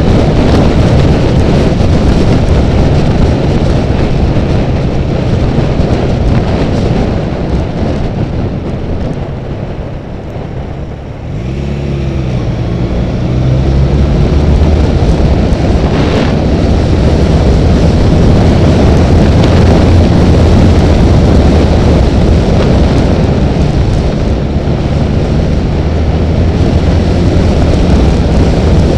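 Honda Rebel motorcycle at freeway speed: a steady loud rush of wind and road noise over the engine's drone. About ten seconds in it eases off, then the engine note climbs as the bike speeds up again and settles back to a steady cruise.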